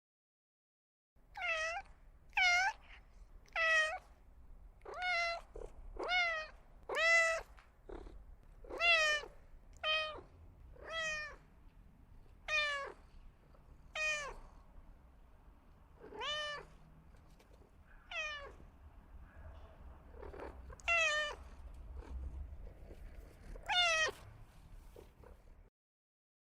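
Cat meowing over and over: about sixteen short meows, each rising then falling in pitch, roughly one to one and a half seconds apart.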